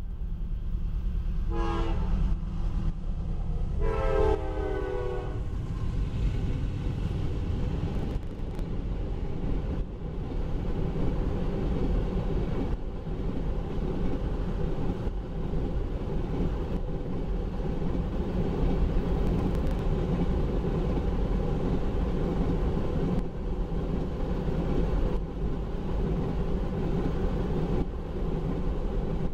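Diesel freight locomotive horn giving a short blast and then a longer one about two seconds later, the end of its warning for the grade crossing. After that, a steady rumble and wheel noise as a long string of empty oil tank cars rolls past.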